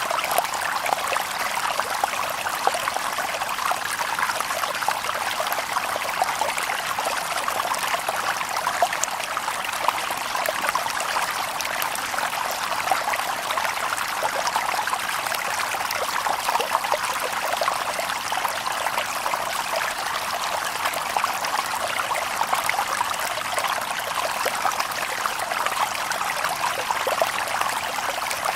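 Shallow river water babbling and trickling over stones, a steady continuous splashing without birdsong.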